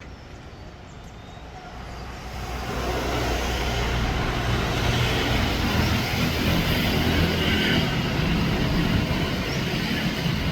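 Boat engine running with a low steady hum under a rushing noise, growing louder over the first three seconds and then holding steady.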